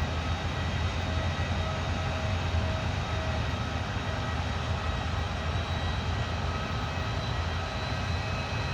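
Distant jet airliner engines running steadily: a low rumble with a faint thin whine over it.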